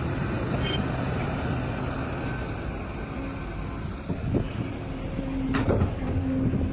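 Large mining excavator's diesel engine running steadily under load, with a couple of short knocks about four and five and a half seconds in.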